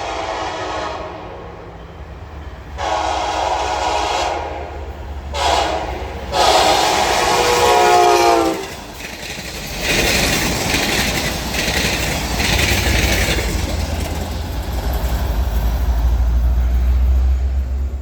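Locomotive horn sounding the long-long-short-long grade-crossing signal, the last long blast dropping in pitch as the locomotive passes. Then the steady low rumble and wheel clatter of the train rolling by, growing louder toward the end.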